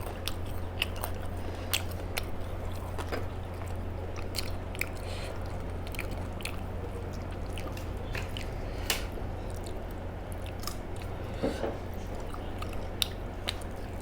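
Close chewing and biting sounds of a rice meal being eaten, with scattered small wet clicks and crunches, over a steady low hum.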